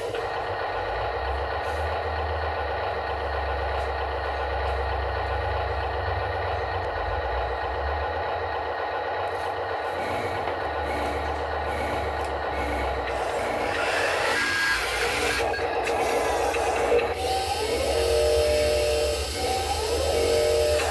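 Heavy diesel vehicle running steadily, with a burst of hissing noise about two-thirds of the way through.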